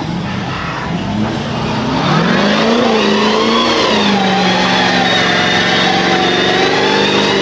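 A mud-bogging vehicle's engine revving up hard about two seconds in, then held at high revs as it drives through a deep mud hole.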